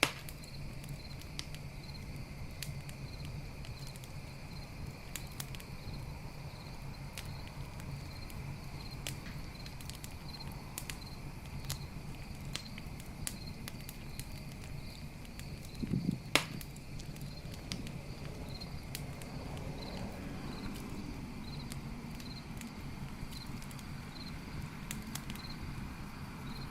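Campfire crackling with scattered pops and one loud snap about sixteen seconds in, over a steady low rumble of the flames. Night insects chirp in an even, pulsing rhythm behind it.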